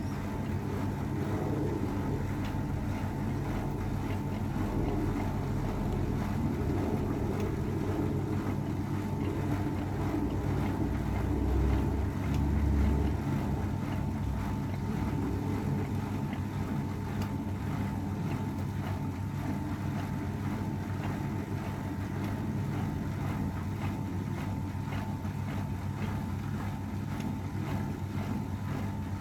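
AEG Öko-Lavamat 693 washing machine running through a 60°C wash cycle, a steady mechanical hum from the motor and drum with a brief low swell about twelve seconds in.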